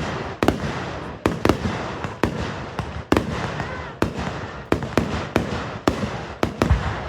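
Fireworks display: aerial shells bursting in a rapid, irregular series of sharp bangs, about two a second, with steady noise filling the gaps between them.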